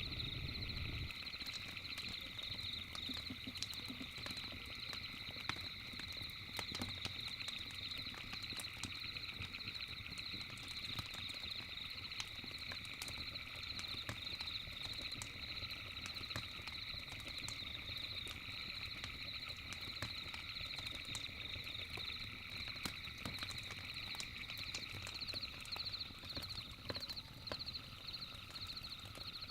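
A steady, pulsing chorus of night-calling animals in several pitches, with scattered sharp crackles and pops from a wood campfire.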